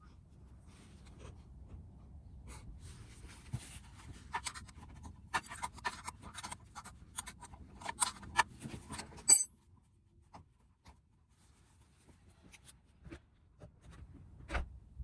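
Hand tools clicking and scraping on the scooter's muffler and its fittings as it is taken off. The clicks come in irregular runs and end in a loud clatter about nine seconds in, followed by a few scattered clicks and a single knock near the end.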